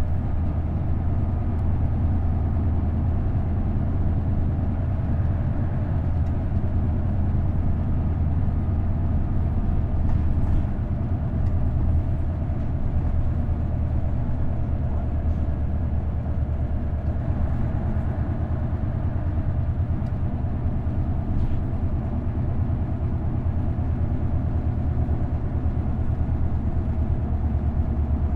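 V8 diesel engine of an Isuzu Erga route bus with a five-speed manual gearbox, running with a steady low drone and no change in engine speed, with a few faint clicks.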